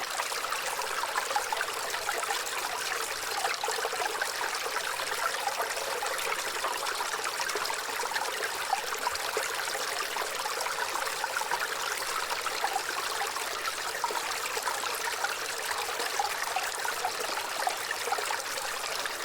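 Waterfall: steady rushing and splashing of falling water, with most of its sound in the middle and upper range and little low rumble.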